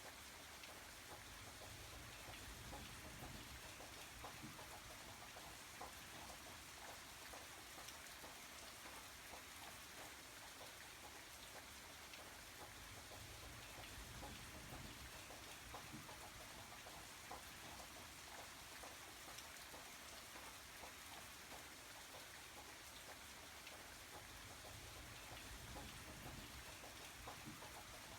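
Faint steady rain, with a dense patter of small drops on a surface.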